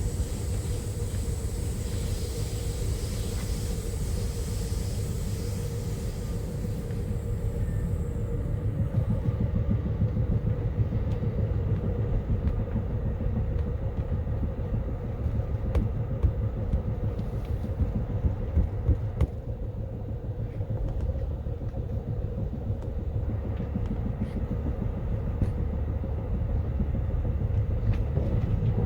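Amtrak Empire Builder passenger train running along the rails: a steady low rumble with a faint steady hum and scattered short clicks from about ten seconds in.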